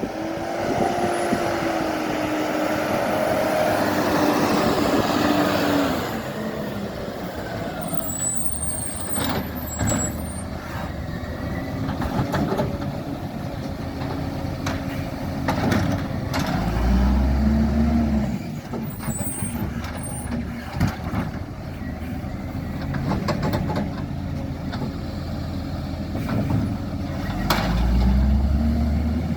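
Garbage truck engine running, its pitch rising and falling several times as it works, with a few sharp knocks and clatters.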